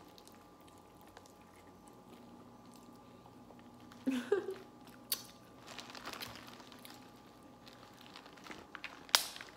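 Quiet eating sounds: chewing and biting into corn on the cob from a seafood boil, with scattered small clicks and one sharp loud click near the end, over a faint steady hum.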